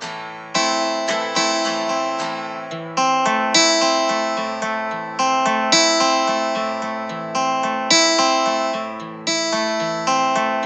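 Background music: acoustic guitar, chords plucked and left to ring out.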